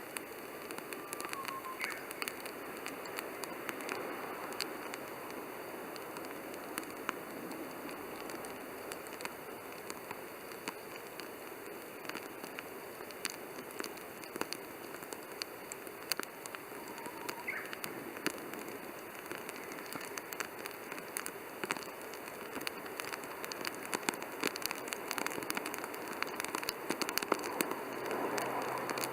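Wood campfire burning steadily, crackling with frequent small pops and snaps.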